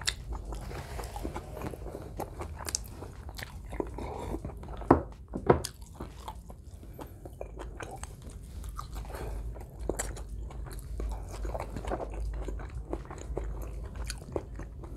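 Close-miked chewing of a mouthful of rice and meat: soft chewing with many small wet mouth clicks, and two sharper clicks about five seconds in.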